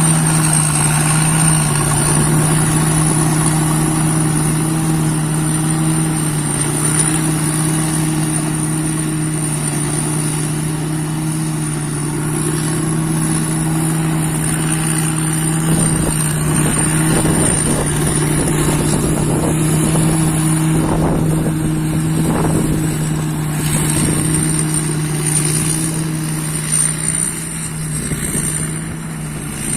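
Rice combine harvester running steadily at working speed: a constant engine drone with a thin high whine above it that wavers slightly, and a rougher stretch of clattering noise in the middle.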